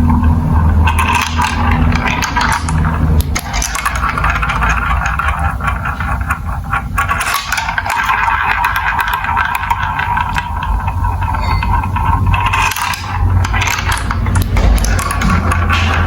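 Marbles rolling and rattling along plastic building-block marble run tracks, a continuous rumble with many small clicks as they run through the pieces.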